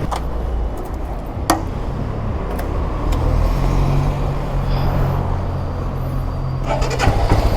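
Vehicle engine idling steadily, with a sharp click about a second and a half in and a few more clicks near the end.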